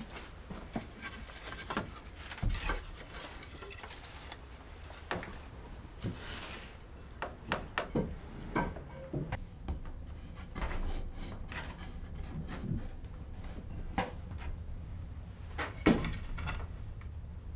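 Irregular clicks and knocks of objects being handled, over a steady low rumble.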